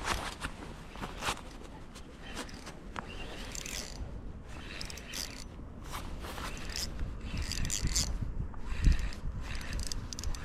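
Fishing tackle being handled: irregular small clicks, scrapes and rattles.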